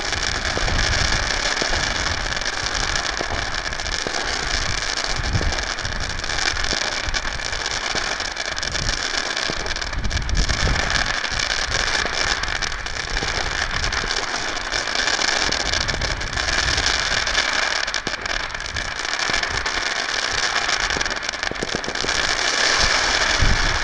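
Consumer fireworks cake firing its 25 shots of rising glittering comets, heard as a steady dense hiss and crackle with no clearly separate reports.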